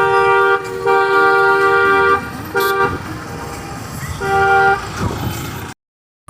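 Vehicle horn honking in four separate blasts: one long, one short and two medium, with a steady two-note tone.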